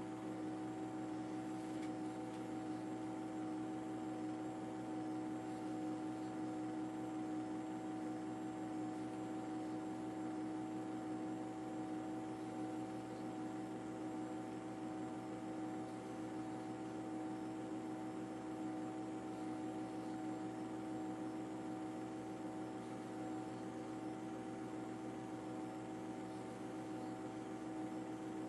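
A steady mechanical drone with several constant humming tones over a hiss, unchanging throughout.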